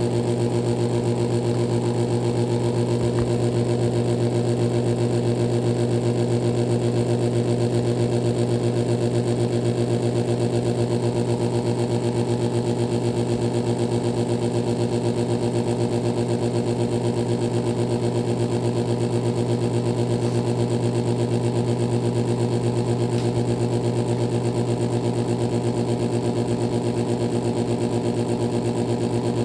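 2012 Pelonis Elite heat pump running with a steady, even electrical hum that holds without change.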